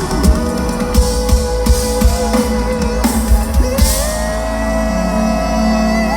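Live rock band playing the instrumental end of a song, electric guitars over a drum kit. The drum hits stop about four seconds in and held notes ring on.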